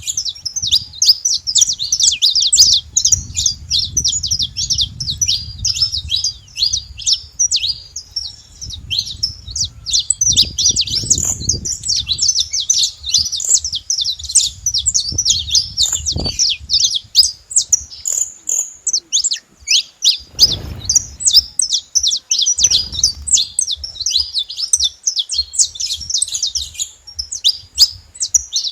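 Saffron finch singing: a long, dense run of rapid high chirps and trills, with only brief pauses.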